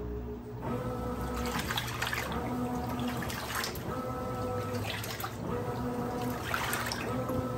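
Brastemp 17 kg top-load washing machine agitating: the motor hums through strokes of about a second and a half, with a brief pause between strokes, over water churning in the drum.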